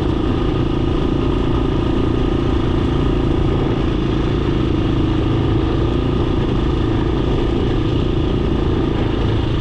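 Dirt bike engine running steadily at an even pitch, over a constant low rumble.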